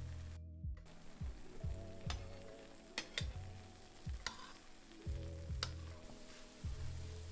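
Besan pakoras sizzling as they deep-fry in hot oil in a pan, with a few sharp clicks of a spoon against the pan as they are turned. Background music with a steady beat plays underneath.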